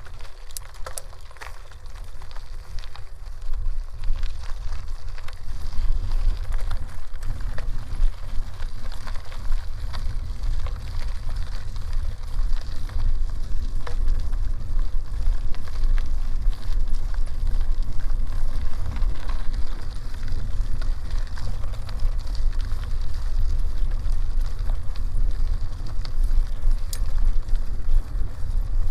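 Bicycle tyres crackling over a dirt and gravel road, with wind buffeting the microphone as a low rumble that grows louder a few seconds in.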